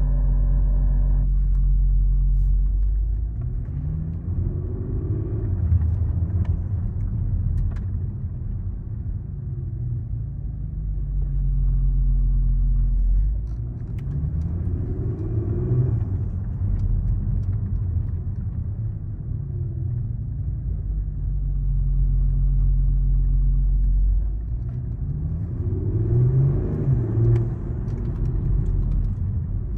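Porsche Panamera (971) at a standstill with the engine running while the steering is worked three times. Each time a wavering grinding noise from the steering rises over the steady engine note.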